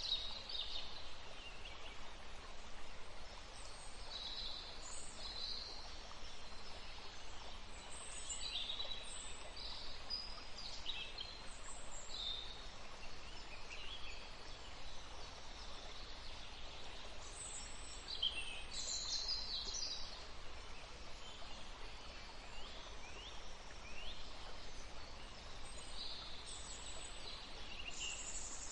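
Several songbirds chirping and trilling in a forest, short high calls coming every second or two, with a few dense bursts of song about 4, 9 to 12, 18 and 27 seconds in, over a faint steady hiss.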